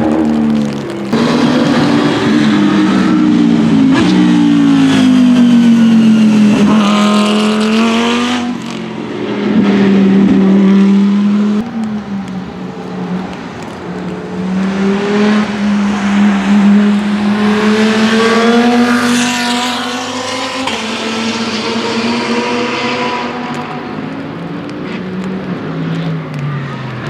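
Several GT racing cars passing one after another at speed, their engines rising and falling in pitch through gear changes and overlapping. One car's note falls away near the end as it passes.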